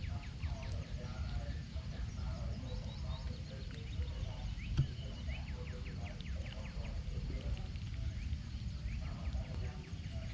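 Small birds chirping over and over in short, falling calls, over a steady low rumble, with one sharp click near the middle.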